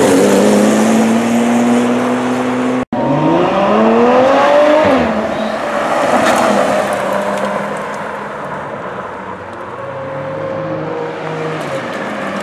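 Ferrari sports-car engines revving and accelerating away one after another, their pitch climbing in rising runs about three to five seconds in. The sound cuts out for an instant just before that, then fades a little and builds again near the end.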